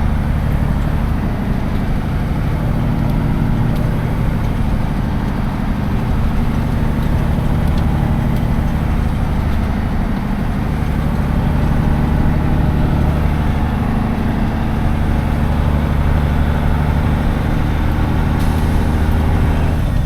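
Semi truck's diesel engine running at a steady, low drone, heard from inside the cab.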